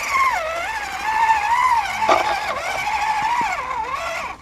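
An RC rock crawler's electric motor and gearbox whining, the pitch rising and falling as the throttle is worked, with a short knock about two seconds in. The whine cuts off suddenly near the end.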